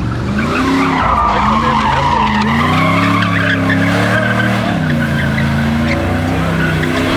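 A car's engine revving up and down over continuous tire squeal as it spins its tires on pavement, as in a burnout or donut. The engine pitch rises and falls several times.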